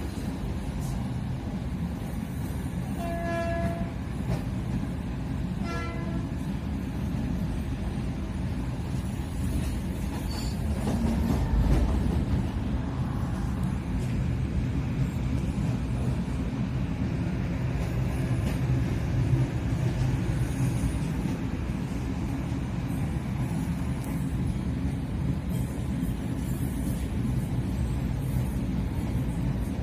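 A passenger train running at speed, heard from inside the carriage: a steady low rumble of wheels and carriage noise. A short horn tone sounds twice, about three and six seconds in.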